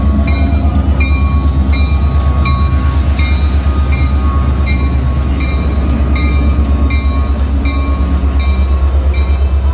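Florida East Coast Railway diesel locomotive passing close by with a loud, steady low rumble, followed by flatcars rolling past. A bell dings steadily about twice a second over it.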